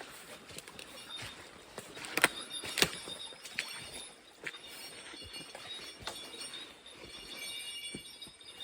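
Forest ambience with faint, high birdsong and several sharp clicks or knocks, the loudest about two to three and a half seconds in.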